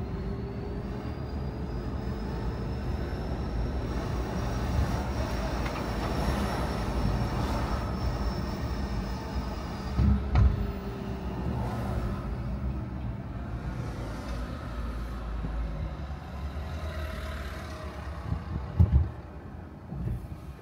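Car driving on a road: a steady low rumble of engine and tyre noise, with a faint whine that rises and then falls in pitch over the first half. There are low thumps about ten seconds in and again near the end.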